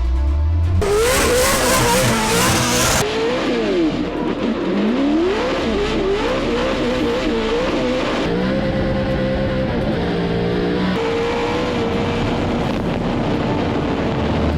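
Drift truck's engine revving up and down over and over as the throttle is worked through a drift, with a loud hiss of tyre noise for about two seconds near the start. Later the engine pitch holds steadier.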